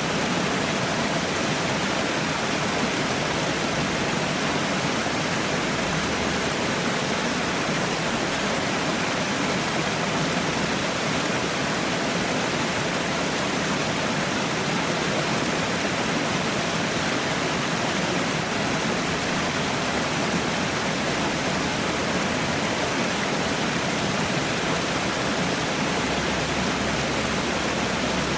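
Falling water rushing steadily, a continuous even hiss with no break or change.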